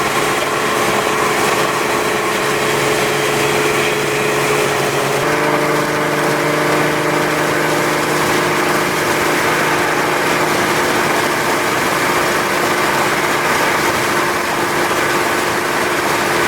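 Audi B5's 2.8-litre 30-valve V6 with a straight-pipe exhaust running steadily at highway cruising speed. Its note shifts to a new pitch about five seconds in.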